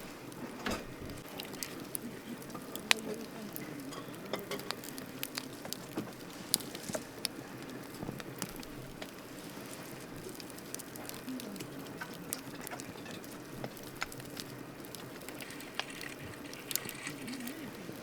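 Wood campfire burning, crackling with irregular sharp pops over a steady low hiss.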